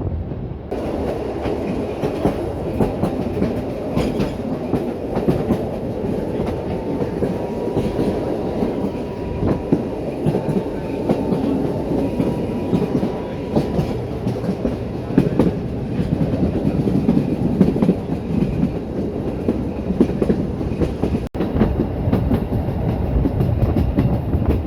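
Steam-hauled metre-gauge train running along the line, its wheels clickety-clacking over the rail joints with steady running noise.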